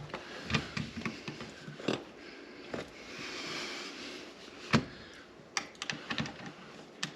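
Small clicks and taps of storm door closer hardware and tools being handled, with a brief soft rushing noise in the middle and one sharp knock about two-thirds of the way through.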